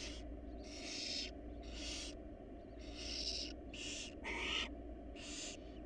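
Barn owls giving harsh hissing screeches, about one a second, each lasting about half a second, over a steady low hum.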